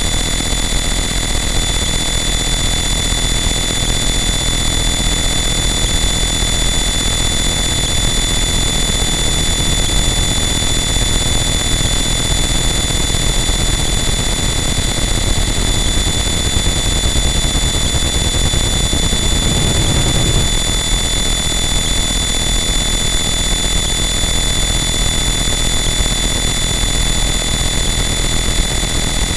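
Harsh noise wall: a dense, unchanging wall of loud static with steady high whining tones running through it. About twenty seconds in, a low rumbling swell rises briefly for about a second.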